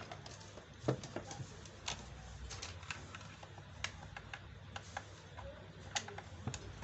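Irregular small clicks and taps of a screwdriver and hands working the screws out of a plastic radio case, with a louder click about a second in and another near two seconds.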